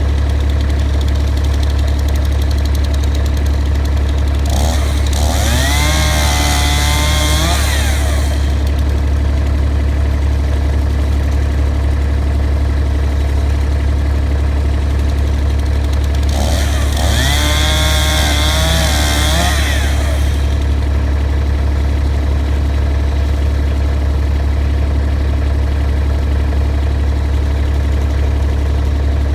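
Two-stroke chainsaw idling steadily, then revved up twice for about three seconds each, about five seconds in and again near seventeen seconds, as it cuts through a fallen tree branch.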